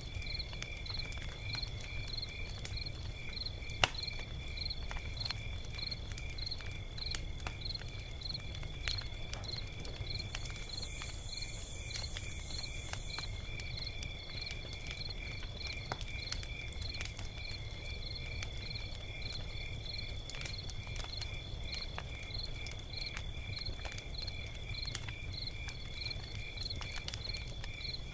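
Log fire crackling with scattered sharp pops over a low rumble of burning. Crickets chirp in a steady rhythm of about two chirps a second throughout. A brief high hiss sounds for a few seconds near the middle.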